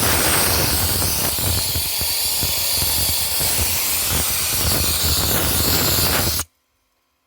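Dry ice blaster firing, a loud, steady blast of compressed air and ice pellets with a rough rumble underneath, cutting off suddenly about six and a half seconds in.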